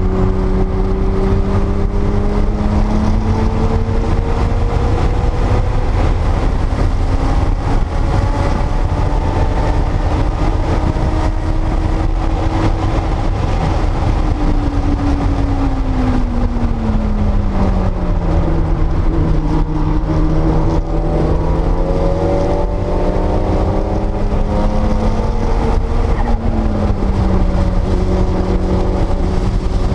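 Porsche 930 Turbo's air-cooled, turbocharged 3.3-litre flat-six pulling under load on track, over a heavy low rumble. Its pitch climbs slowly, falls steeply about halfway through, climbs again, then dips once more near the end.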